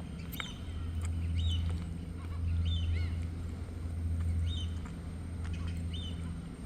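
A small bird chirping, short high calls repeated about once a second, over a steady low hum.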